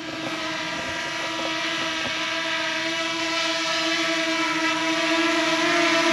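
DJI Mini 2 drone's propellers buzzing with a steady high hum like a ginormous bee, growing gradually louder.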